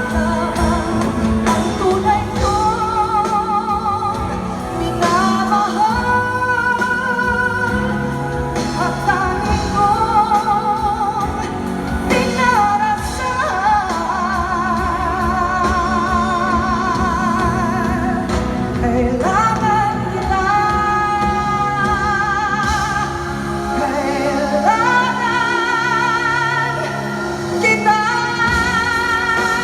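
A female vocalist sings a slow pop ballad over instrumental accompaniment, holding long notes with a wide vibrato.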